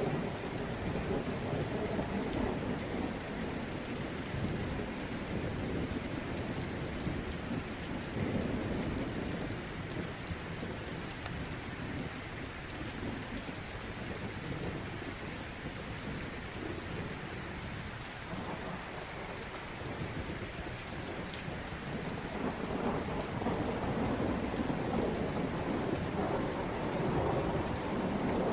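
Steady heavy rain with low rolling thunder that swells and fades several times, loudest in the last few seconds.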